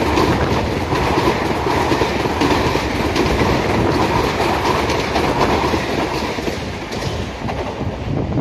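Indian Railways ICF passenger coaches passing at speed close by: a loud steady rush of wheels on rail with a clickety-clack over the rail joints, easing near the end as the last coaches go by.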